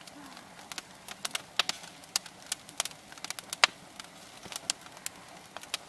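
Bonfire crackling and popping: irregular sharp snaps, with one louder pop about three and a half seconds in.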